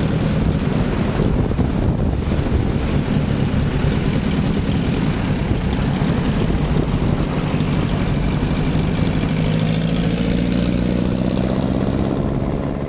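A 1929 Henderson KJ's 80-cubic-inch air-cooled inline-four engine idling steadily shortly after a cold kick start. Its pitch rises slightly in the last few seconds.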